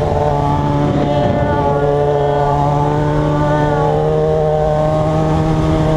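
Motorcycle engine running steadily under way, its pitch wavering a little between about one and four seconds in.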